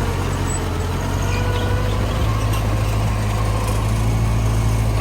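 Heavy earthmoving machine's diesel engine running at a steady speed, with a strong, even low hum.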